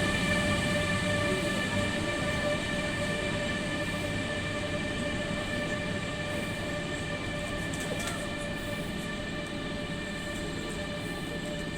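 Avlo high-speed electric train pulling out of the station: a steady electric hum made of several held tones over a rolling rumble, slowly fading as it moves away.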